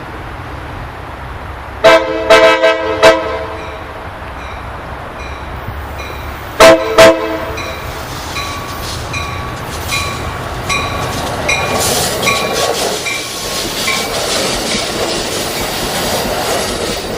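Eastbound BNSF stack train led by four GE C44-9W diesel locomotives approaching at speed, its horn sounding a quick run of short blasts and then two more a few seconds later. After that comes an even clicking about twice a second, and the rumble and rush grow louder as the train closes in.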